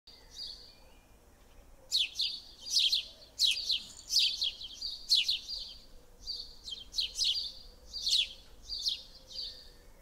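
A songbird singing: a run of sharp, high chirps that sweep down in pitch, coming roughly two a second from about two seconds in.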